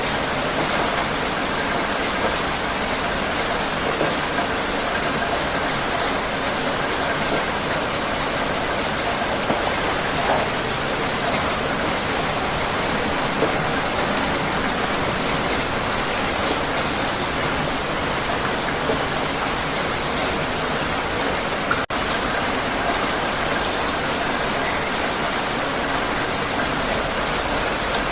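Heavy rain falling steadily: a dense, even hiss with scattered individual drop ticks, and one split-second dropout about three quarters of the way through.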